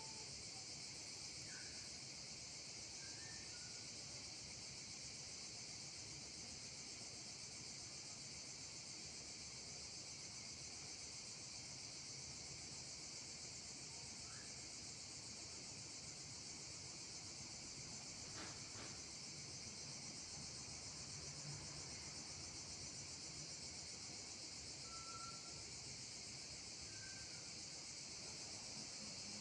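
A steady, high-pitched insect chorus with a few brief, faint bird chirps scattered through it.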